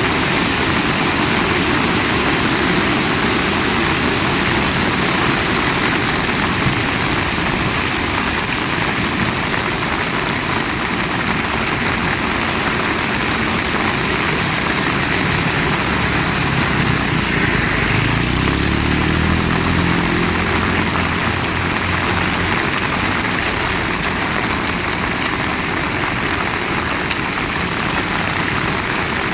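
Heavy rain falling steadily, a dense hiss. Past the middle a low rumble with a pitch rises and fades over a few seconds.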